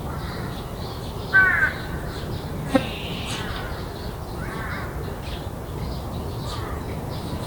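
A crow cawing: one loud harsh call about a second and a half in, then several fainter caws. There is a single sharp click just before the three-second mark and a steady low rumble underneath.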